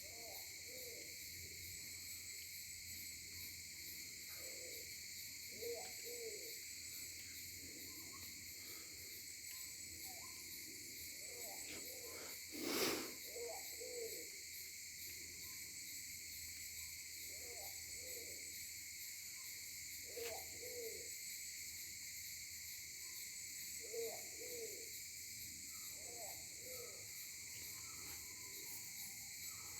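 A bird giving low hooting calls of two or three notes, repeated every few seconds, over a steady chorus of insects. A single sharp knock sounds about halfway through.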